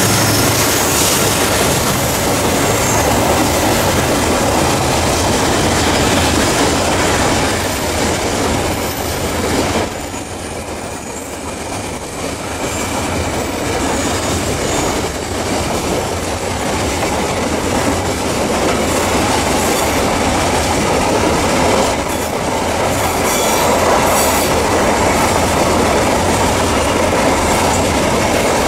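A long coal train of open hopper wagons rolling past behind CC 205 diesel-electric locomotives, wheels clattering over the rails with some wheel squeal on the curve. The level dips briefly a little after ten seconds, then the rolling noise carries on.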